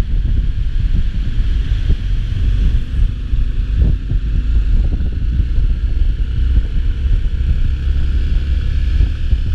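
Steady wind rumble on the microphone with the noise of travel on the road underneath, no let-up.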